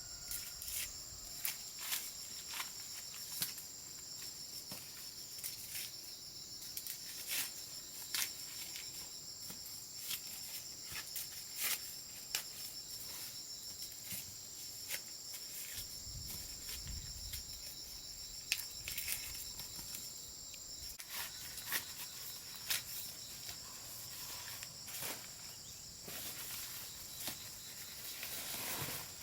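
A steady high-pitched chorus of insects buzzing, with many irregular sharp clicks and snaps on top.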